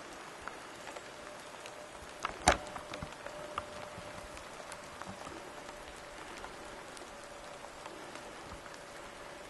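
Light rain pattering on a surface, with scattered drop ticks. One sharp crack about two and a half seconds in is the loudest sound, and a faint steady hum follows it.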